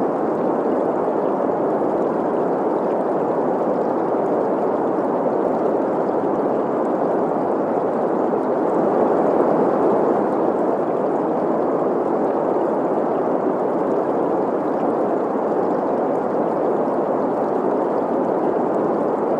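Steady green noise, an even hiss centred in the middle range, blended with the sound of a flowing stream.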